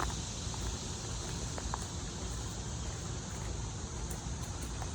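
Steady outdoor background noise: a low rumble with a few faint clicks and ticks.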